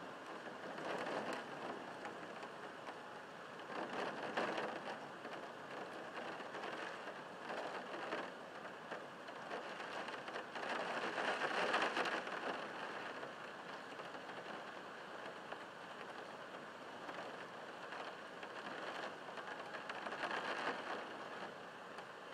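Heavy rain beating against a window pane, a steady rush that swells louder in gusts several times, loudest about halfway through.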